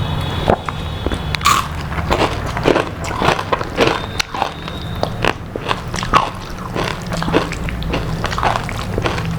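Close-up chewing and biting of crispy fried food: irregular crunches and crackles, with wet mouth sounds between bites, over a steady low hum.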